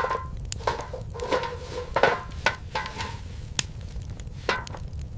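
Irregular knocks and clinks, about a dozen in a few seconds, some with a short ring, over a low steady rumble.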